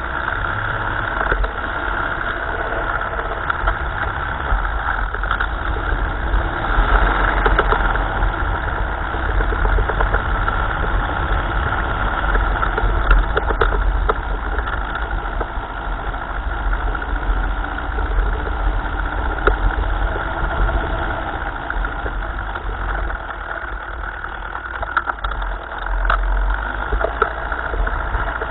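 1955 Ferguson tractor's engine running steadily at a low, even speed, heard close up through the steering arm, with a few scattered clicks and rattles.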